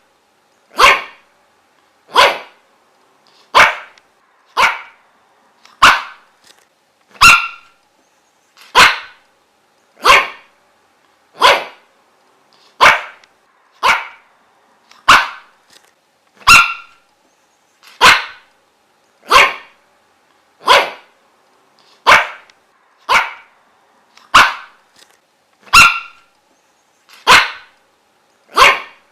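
A dog barking single sharp barks over and over, evenly spaced about once every second and a half.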